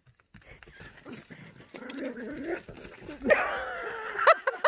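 A dog whining and moaning in wavering tones, rising into a louder drawn-out whine about three seconds in, then a few short high-pitched yelps near the end.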